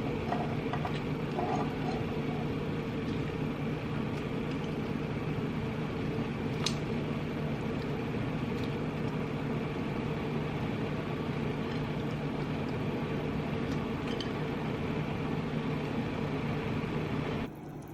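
Steady mechanical hum of a kitchen fan running while a pot cooks, with a few faint clicks. It drops off sharply near the end.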